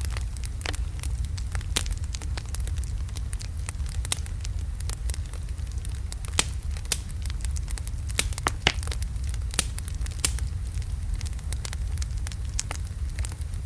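Burning wood logs in a fireplace crackling and popping at irregular intervals over a steady low rumble of the flames, with a few louder pops midway through.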